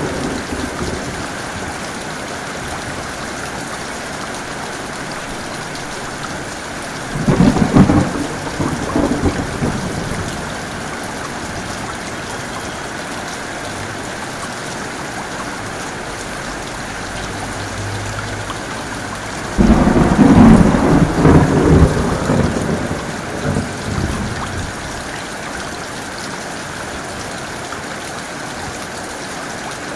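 Heavy rain falling steadily, with two peals of thunder: one about seven seconds in that rumbles for a few seconds, and a louder one that breaks in suddenly about twenty seconds in and rolls on for about five seconds.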